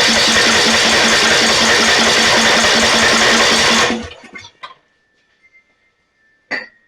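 Snapper riding mower's engine being cranked by its electric starter, turning over with an even beat of about five pulses a second without firing, then released about four seconds in; the engine has no spark at the plug. A single metallic clink with a short ring comes near the end.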